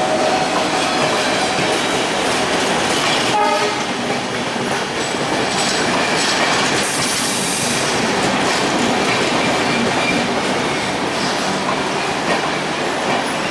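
Passenger train running by at speed, its wheels clattering on the rails in a loud, steady din. A brief horn-like tone sounds about three seconds in.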